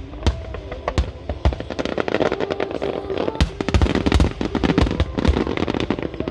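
Aerial fireworks bursting with sharp bangs and rapid crackling, which grow dense from about two seconds in, over music playing at the same time.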